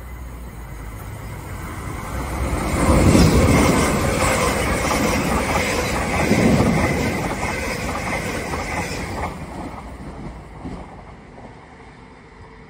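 Elizabeth line Class 345 electric train passing close at speed: the rumble of wheels on the rails builds over a couple of seconds, is loudest twice as the carriages go by, then fades away over the last few seconds.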